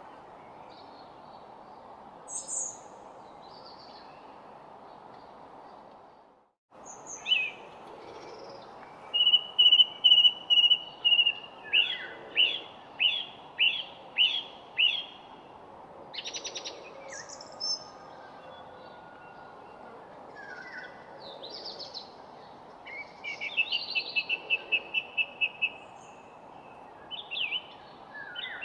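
Several songbirds singing over a steady background hiss: a short chirp early on, then a held trill, a run of repeated down-slurred notes and assorted chirped phrases. The sound drops out briefly about six and a half seconds in.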